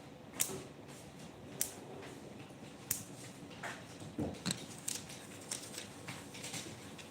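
Scattered sharp clicks and light knocks at irregular intervals, roughly one a second, like small objects being handled.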